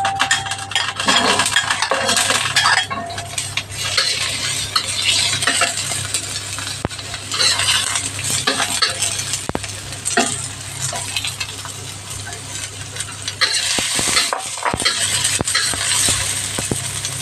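Chopped onion and garlic sizzling in hot oil in a stainless steel wok after being tipped in at the start, with a metal fork scraping and clicking against the pan as they are stirred.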